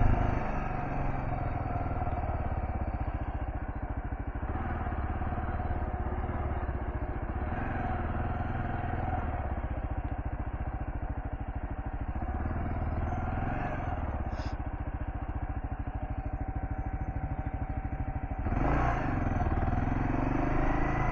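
Kawasaki KLR650's single-cylinder four-stroke engine running steadily on the move. It gets louder with a shift in pitch near the end.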